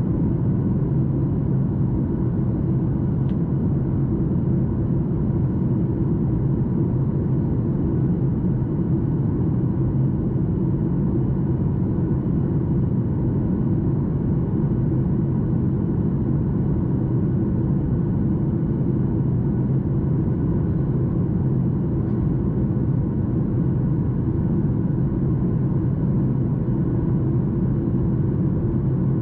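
Steady cabin noise of a Boeing 737 MAX 8 in flight: the CFM LEAP-1B engines and the airflow make an even low rumble, with a few faint steady tones above it.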